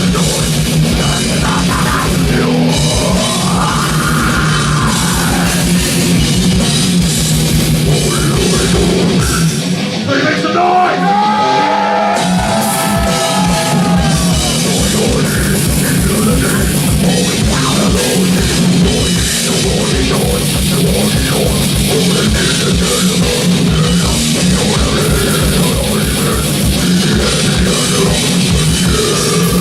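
Live metal band playing at full volume: fast drum kit and distorted electric guitars. About ten seconds in, the drums drop out for a couple of seconds under bending guitar notes, then the full band comes back in.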